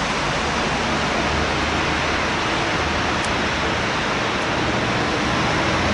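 Steady rushing cabin noise inside an Airbus A318 airliner: airflow and jet engine noise, even and unchanging.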